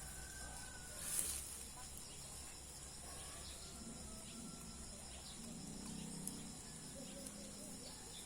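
Quiet outdoor background with a few faint, thin bird calls and a brief rustle about a second in.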